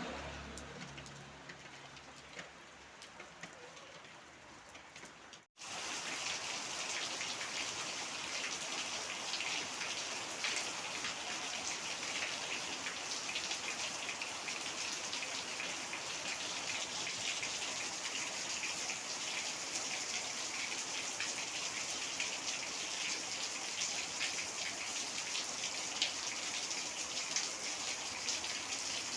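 Heavy rain falling steadily, a dense patter of drops striking surfaces. It starts after a quieter, fading opening and a brief cut to silence about five seconds in.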